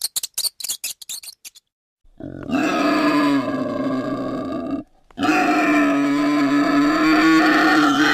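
A mouse's rapid high squeaks for about the first second and a half, then a wild boar calling: two long, loud calls of steady pitch, each about three seconds, with a short break between them.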